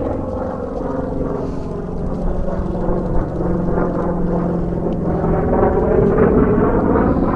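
Aircraft flying past at an air show, a loud steady engine drone that swells a few seconds in, with its tone sweeping as it passes.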